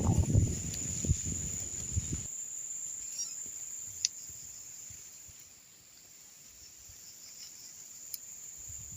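Wind buffeting the microphone for about the first two seconds, then a steady high-pitched insect drone with a few faint chirps over it.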